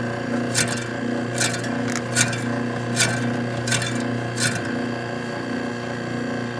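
1952 Vornado room air conditioner running with a steady electrical hum and a regular scraping click about every 0.8 s that stops a little past halfway. The fan motor is stiff, turning slowly and not yet freed up.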